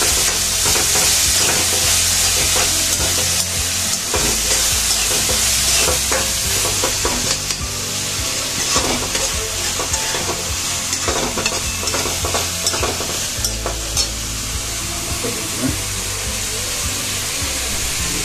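Sliced onions and garlic sizzling in hot oil in a kadai, with a steel spoon scraping and clinking against the pan as they are stirred.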